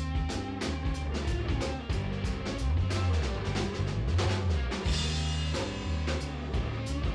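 Live band playing an instrumental passage: drum kit with kick and snare, a bass line, and guitar.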